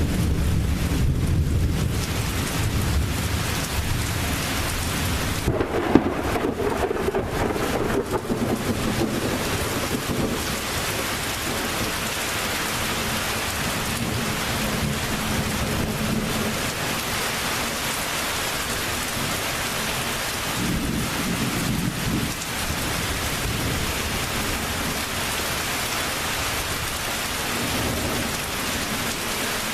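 Thunderstorm: steady heavy rain with low thunder rumbling at the start and several more times later, and one sharp crack about six seconds in.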